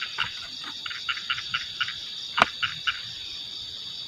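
Frogs calling in quick series of short croaks over a steady high insect trill, with a single sharp click about two and a half seconds in.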